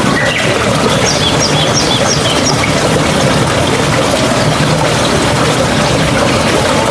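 Mountain stream babbling steadily. A bird gives a quick run of about six short high chirps between about one and two and a half seconds in.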